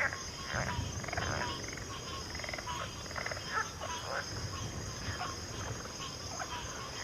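Chorus of frogs: many short, overlapping croaks and trilled calls from several animals at once, over a steady high-pitched insect drone.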